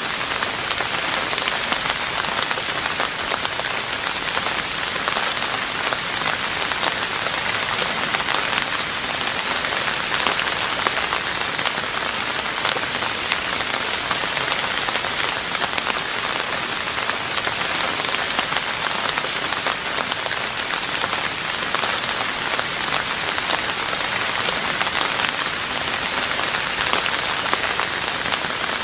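Steady rain falling on a roof: a dense, even wash of many drop hits with no change in strength.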